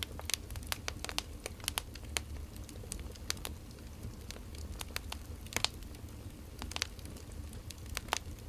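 Firewood burning with irregular sharp crackles and pops, over a steady low hum.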